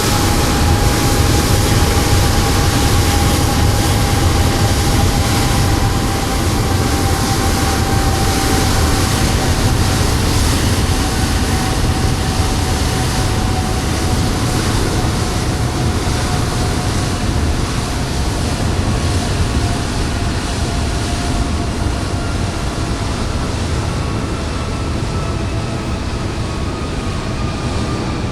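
Steady loud machine rumble with a whine that slowly falls in pitch.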